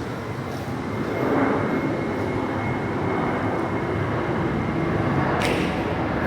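Steady rushing noise of heavy rain and a fast-flowing, rain-swollen river, growing a little louder after about a second.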